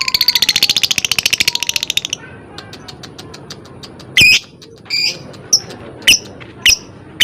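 Lovebirds calling: a fast, rattling chatter trill lasting about two seconds, then a run of single shrill calls spaced about half a second to a second apart.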